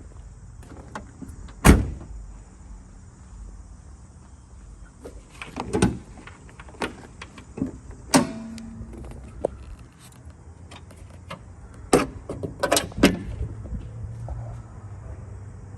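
Scattered sharp clicks and knocks, with one heavier thud just under two seconds in and a quick cluster of clicks about twelve to thirteen seconds in, over a low steady hum, as from parts of a pickup truck being handled.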